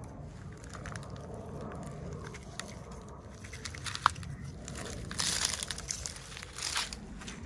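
Plastic toy packaging being handled and opened: crinkling with small clicks, one sharp click about four seconds in, and two louder bursts of crinkling in the second half.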